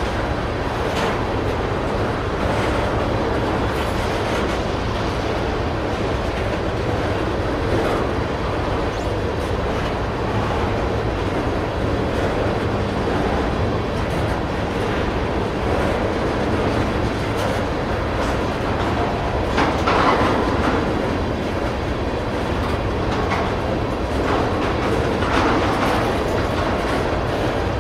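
Steel wheels of a long string of railroad tank cars rolling past on the rails in a steady rumble, with occasional clacks over rail joints and a brief louder patch about two-thirds of the way through.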